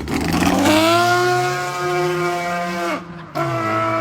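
Car engine running with its downpipe removed, so the exhaust is effectively open and very loud and harsh. The note climbs under acceleration and holds, then drops away about three seconds in as the driver shifts up, and comes back steady at a lower pitch.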